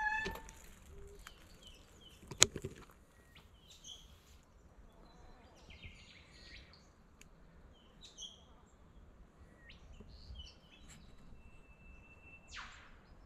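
Birds chirping intermittently with short, scattered calls over a quiet outdoor background. One sharp click comes about two and a half seconds in.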